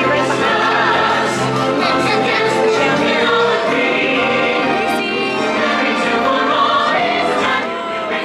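Choir singing over orchestral music, played through the Haunted Mansion ride's sound system.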